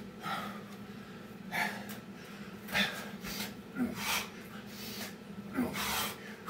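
A man's hard, heavy breathing during burpees: forceful, snorting exhales and gasps about every second and a half.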